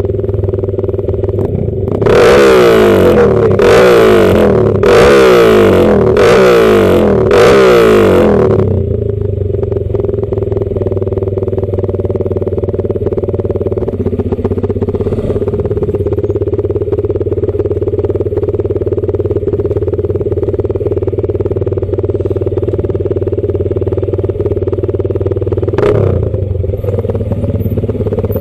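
Motorcycle engine running steadily, with five loud, quick revving bursts in a row about two to eight seconds in. A single sharp knock comes near the end.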